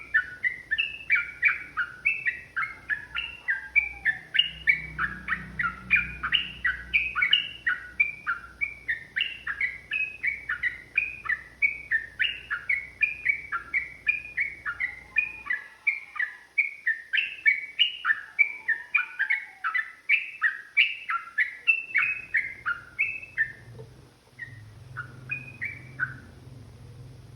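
Yellow-vented bulbul (trucukan) singing a long, fast run of short chirping notes, two to three a second, that thins to a few scattered notes near the end and stops.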